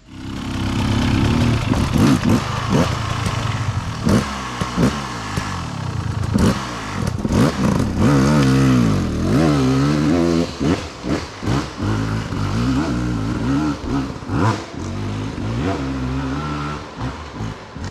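Off-road dirt bike engine revving hard, its revs rising and falling again and again, as on a steep, slippery climb, with clattering and knocks mixed in.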